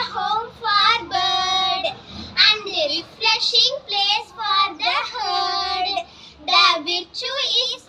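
A child singing a poem unaccompanied, in phrases with short pauses between them and some held, wavering notes.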